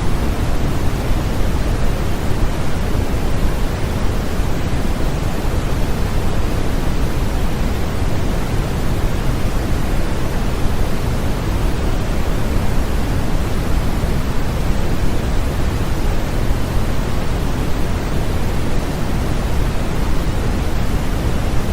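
Steady, continuous synthetic noise for baby sleep, weighted toward the low end like pink noise, with no change throughout.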